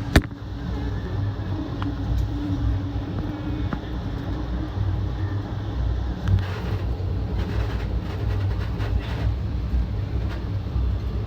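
Steady low rumble of a moving passenger train car heard from inside, with one sharp click just after the start.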